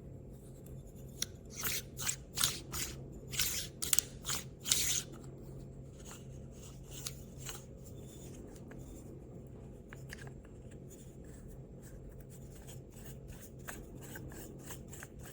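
Handling of a manual coffee grinder's metal parts: a quick run of sharp rasping scrapes and clicks, then lighter scattered clicks over a steady low hum.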